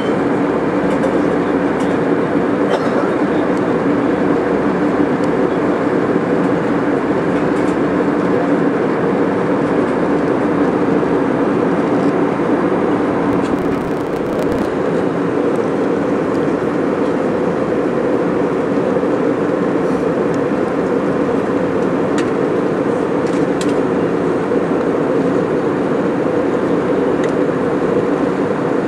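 Airliner cabin noise in flight: steady engine and airflow noise with a constant low hum.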